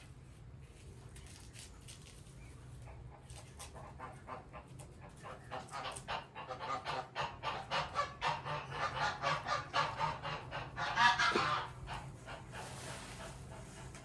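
Domestic geese honking, a rapid run of repeated calls that builds up and is loudest about eleven seconds in, then dies away.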